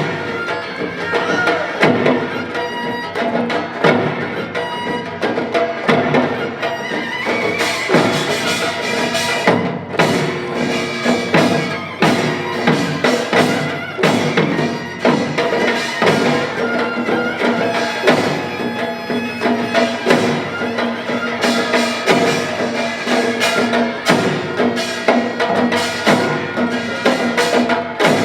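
Korean pungmul percussion band playing a driving rhythm, with sharp metallic and drum strikes and a strong accent about every two seconds, over held pitched tones.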